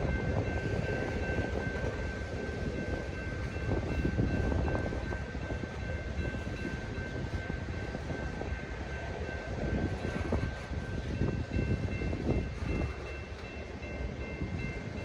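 Freight train rolling past: a steady rumble of railcars with scattered knocks from the wheels, and a faint steady high-pitched whine over it.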